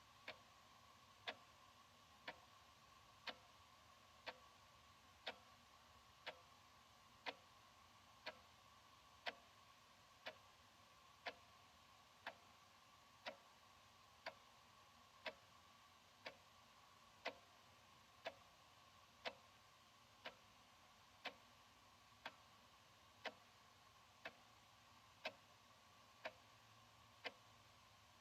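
Analog wall clock ticking steadily, one sharp tick a second, over a faint steady high whine.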